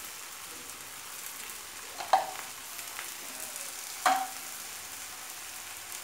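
Jackfruit curry frying in a metal kadai, a steady soft sizzle. Twice, about two seconds apart, a sharp metal clink rings briefly over it.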